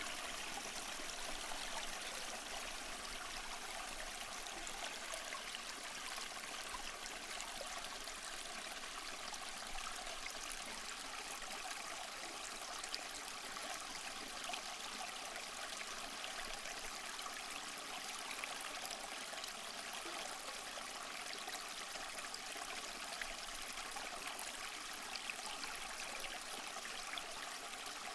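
Small waterfall splashing and trickling over moss-covered rock, a steady rush of water with many small splashes.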